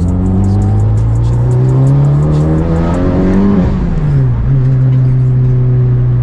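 Built Honda Civic Si race car engine accelerating, its pitch rising for about three and a half seconds, then dropping quickly over about a second and holding steady.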